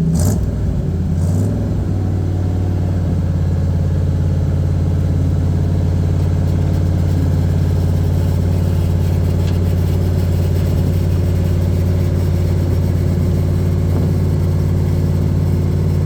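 1978 Chevy square body's 350 V8 running steadily in PTO mode, driving the hydraulic hoist pump as the loaded dump bed slowly lifts. There are a couple of short knocks in the first second and a half. The hoist is slow, and the owner thinks it probably needs rebuilding.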